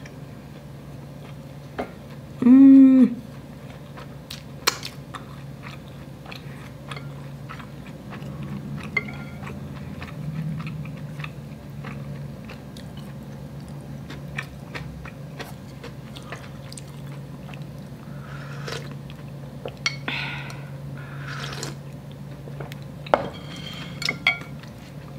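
Close-miked chewing of a sriracha-topped inari sushi, a rice-stuffed fried tofu pouch: soft wet mouth clicks and smacks scattered throughout. A short hum of the voice comes about three seconds in, and a low steady hum runs underneath.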